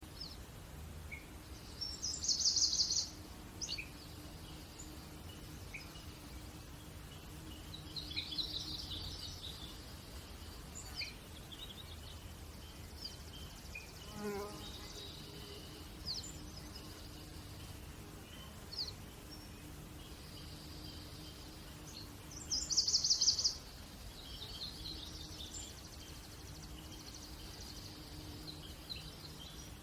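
Wild birds chirping and trilling, with short high calls scattered throughout and two loudest rapid trills, one near the start and one about three-quarters through. A faint steady hum runs underneath.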